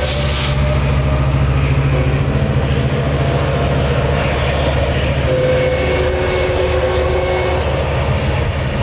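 A train passing close by: a diesel locomotive's engine running with a steady low drone over the rolling of wheels on the rails, with thin squeals coming and going. A short hiss right at the start.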